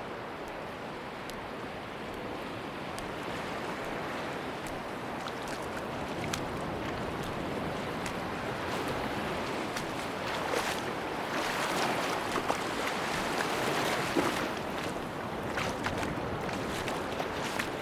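Sea waves washing on a beach, a steady rushing surf that swells into a louder break about two thirds of the way through and then eases back, with faint scattered ticks in the wash.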